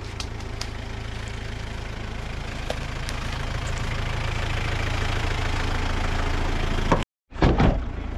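An off-road 4x4's engine running with a steady low hum, the engine and road noise slowly growing louder as the vehicle gets under way. It cuts off abruptly about seven seconds in, followed by a short loud burst.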